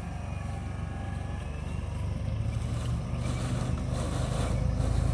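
Vehicle engine idling, a low steady hum that grows louder toward the end.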